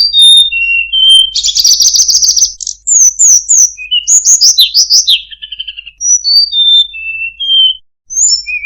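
Loud, varied songbird song: strings of clear whistled notes stepping down in pitch, a fast buzzy trill, and quick high notes slurring downward, with a brief pause near the end before the song starts again.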